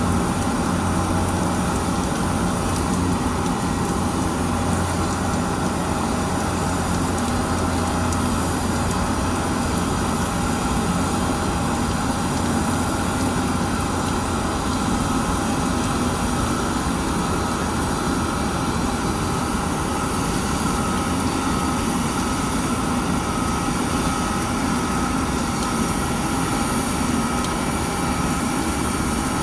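Steady jet aircraft noise: an even rush with a low hum and a few faint steady tones, unchanging throughout.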